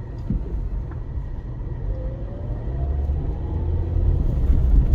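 Car cabin noise while driving through a sandstorm: a low engine and road rumble with strong wind buffeting the car. A faint rising engine note comes about halfway through, and the rumble grows louder toward the end.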